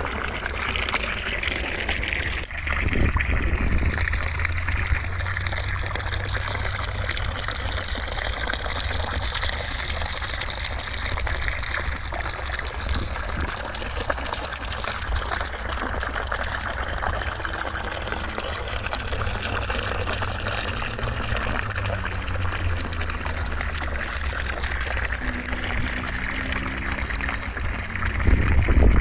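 Steady white noise that sounds like gushing water, with a brief dip about two and a half seconds in and a slight swell near the end.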